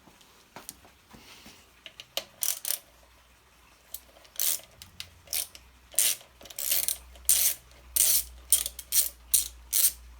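Socket ratchet wrench clicking in short repeated strokes, a few scattered clicks first and then about ten quick strokes coming closer together in the second half, as 8 mm bolts are undone.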